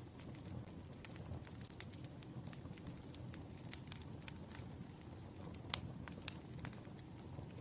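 Wood fire crackling: a steady low rumble of burning logs with irregular sharp pops and snaps, one louder pop a little before six seconds in.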